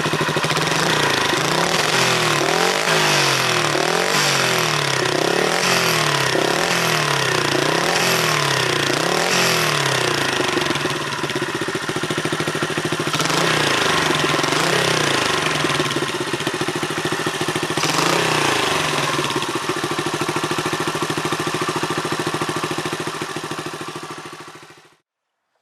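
Honda Super Cub's single-cylinder four-stroke engine through an aftermarket upswept muffler, its throttle blipped repeatedly, about once a second, with the exhaust note rising and falling. Later the engine is revved only now and then, then runs steadily. The sound stops abruptly near the end.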